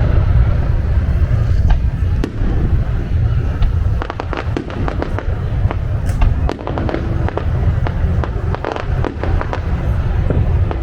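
Fireworks display: continual low booming, with rapid crackling bursts starting about four seconds in.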